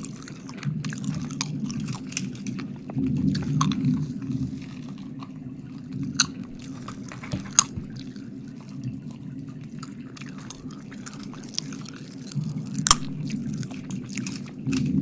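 Close-miked wet mouth sounds: irregular sticky smacks, licks and clicks, the sharpest one about thirteen seconds in.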